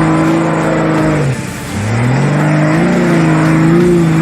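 Off-road race vehicle's engine running hard at high revs. About a second and a half in the revs drop briefly, then climb back up and hold a steady high note.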